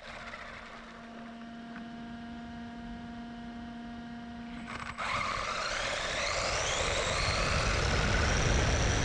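A steady electrical hum, then about five seconds in an RC car's brushless electric motor whines up, rising in pitch and settling into a steady high whine.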